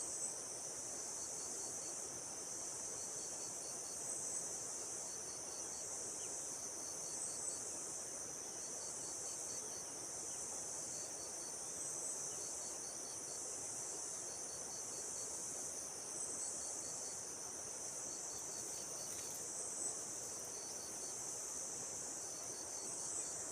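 A steady, high-pitched chorus of insects, cricket-like, with short pulsed trills repeating about once every second or so over it.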